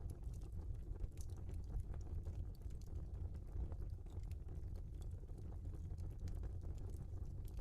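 Logs burning in a fireplace: a steady low rumble of the fire with scattered small crackles and snaps, about one or two a second.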